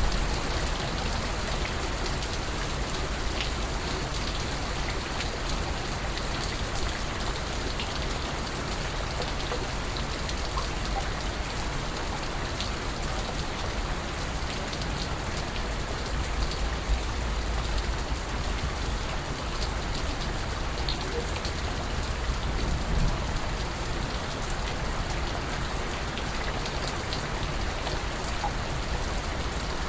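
Steady rain falling, with scattered soft water drips ticking through it.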